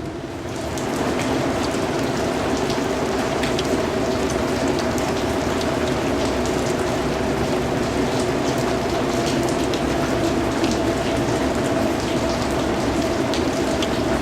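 Steady rain falling, with individual drops ticking through an even hiss. The level dips for a moment at the start, then swells back within about a second and holds steady.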